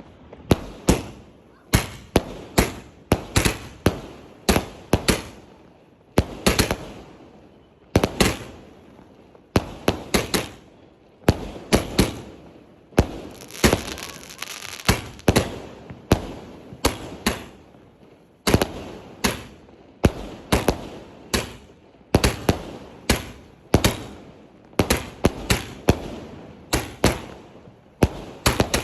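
Bird brand 'Sky King' aerial firework firing a long series of sharp bangs, about one or two a second, each with a short echoing tail.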